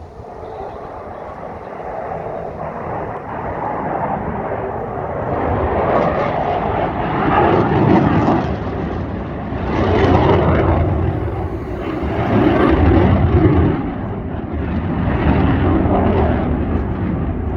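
Display jet's engines rumbling overhead, the noise building and then swelling and easing in waves as the jet passes and turns, echoing off buildings.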